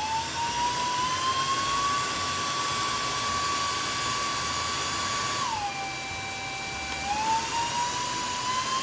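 Proscenic I9 cordless stick vacuum's motor running with a high whine. It climbs in pitch over the first couple of seconds and holds steady. About five and a half seconds in it drops sharply, then climbs again near the end as its power level is changed.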